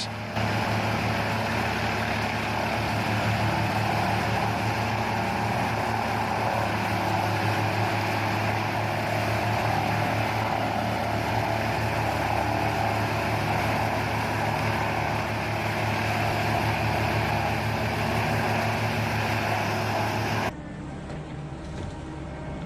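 Forestry wood chipper running steadily, with a low engine drone under a broad rushing noise. Near the end the sound drops abruptly to a quieter, duller machine noise.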